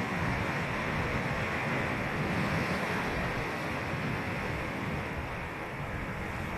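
Ocean surf breaking and washing up on the beach: a steady rushing hiss that swells a little a couple of seconds in and eases slightly near the end.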